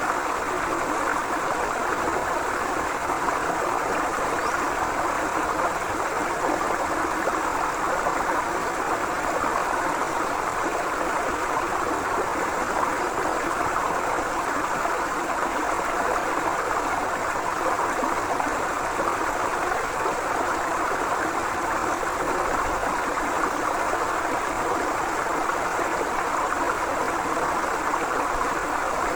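A forest river flowing: steady rushing and gurgling water that does not change.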